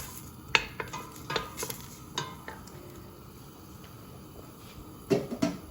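A spoon stirring onions frying in oil in a pot, knocking and scraping against the pot several times in the first half, over a faint sizzle.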